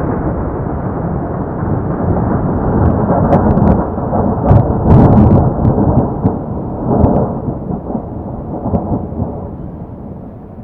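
Thunder from a close lightning strike: a long, low rolling rumble with a few sharp cracks in the middle, loudest about five seconds in, then dying away.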